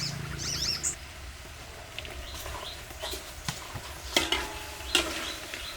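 Cooking of blue crabs: a utensil stirring and clinking in the pan now and then, over a light sizzle. A few high chirps sound near the start.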